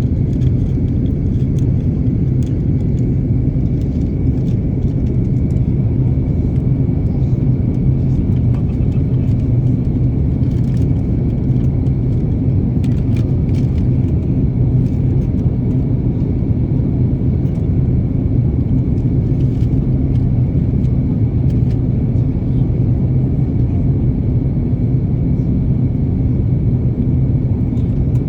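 Airplane noise: a steady low rumble that does not change, with a thin steady high whine above it and a few light clicks.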